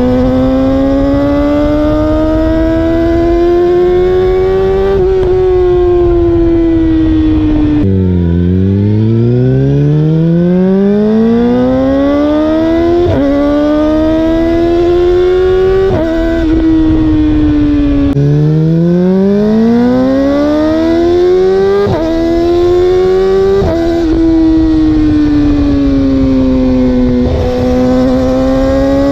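Yamaha YZF-R6's inline-four engine through an Akrapovic Racing Line full exhaust, heard on board while riding: the engine note climbs through the gears with a sudden drop in pitch at each upshift, and several times the revs fall away as the throttle is eased off before climbing again.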